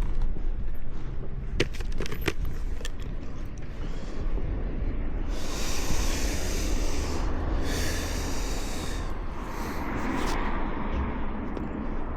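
Engine of an old Honda CB motorcycle running while it is ridden, a steady low rumble. Twice in the middle a hissing rush of noise rises over it for a second or two.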